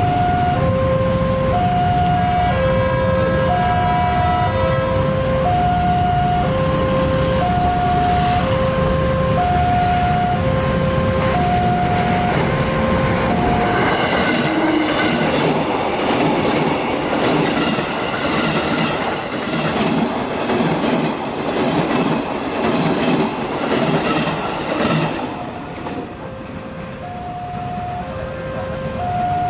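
Level crossing warning alarm sounding a repeating two-note tone about once a second over a low rumble. About halfway through, a train passes at speed and its wheels clack rhythmically over the rail joints, drowning out the alarm. The alarm is heard again near the end.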